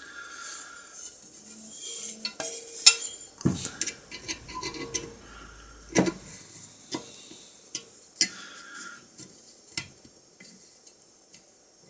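Metal parts clinking, knocking and scraping as they are handled, with irregular sharp knocks; the loudest comes about three seconds in.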